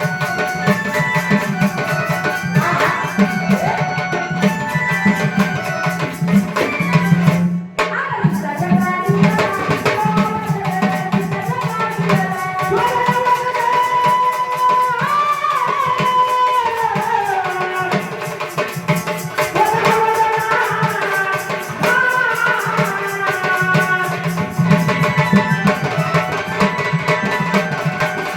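Devotional folk song with a woman singing over tabla and other percussion. The music breaks off for a moment about seven seconds in.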